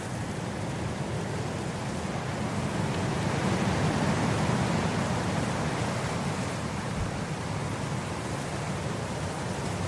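Wind blowing across grass: a steady rushing with a low rumble underneath, swelling a few seconds in and easing again.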